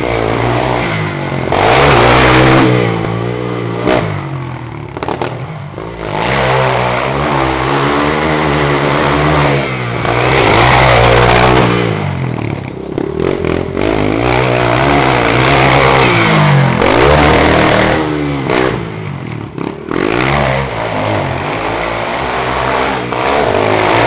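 Yamaha TT-R230 trail bike's single-cylinder four-stroke engine being ridden hard. Its pitch climbs and drops again and again with the throttle and gear changes, with several loud full-throttle pulls.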